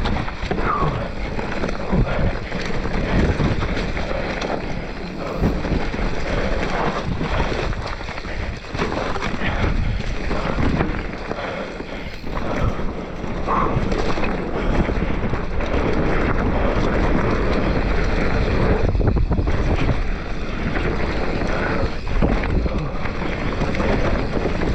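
Mountain bike descending a steep dirt trail through ruts: wind buffeting the microphone over steady tyre noise on dirt, with frequent knocks and rattles from the bike over rough ground.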